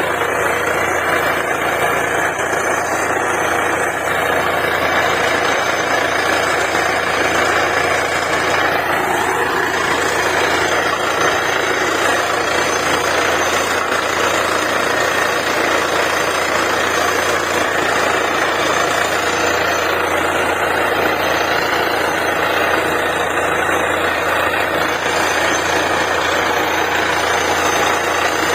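Truck-mounted DTH borewell drilling rig running, a loud, steady, unbroken machine noise from its diesel engine and air compressor.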